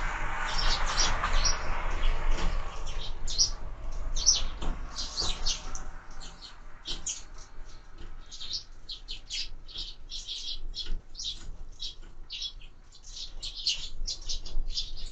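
Sparrows chirping in quick, overlapping short calls, many a second throughout. A soft rushing noise sits under them for the first few seconds and then fades.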